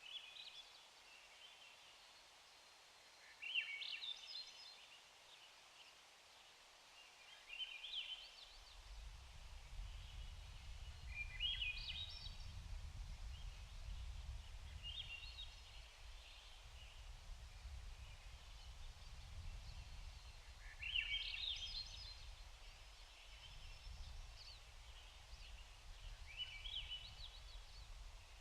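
A bird calling outdoors: six short, rising chirpy calls a few seconds apart, over a faint steady hiss of background noise. A low rumble comes in about a third of the way through and stays.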